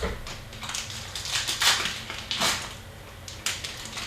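Hockey card packs and cards being handled: a series of short crinkling, rustling bursts of foil wrappers and cards, the loudest about a second and a half in and again about two and a half seconds in.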